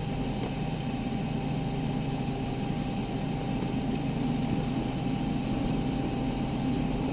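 Vehicle engine running at idle, a steady low rumble with a thin steady hum above it and a few faint ticks.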